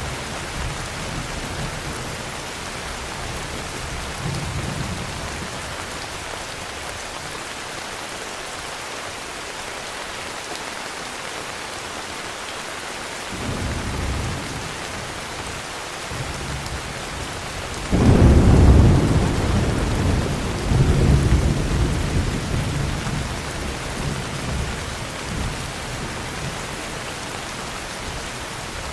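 Steady heavy rain falling, with low thunder rumbles early on and a short rumble about halfway. About two-thirds of the way through, a sudden loud thunderclap breaks and rolls on, fading out over several seconds.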